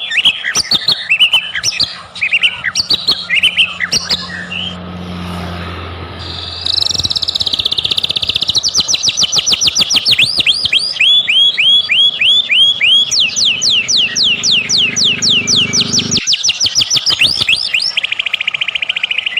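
White-rumped shama (murai batu) singing: varied whistled phrases for the first few seconds, then, after a short pause, a long fast run of rapidly repeated sweeping notes.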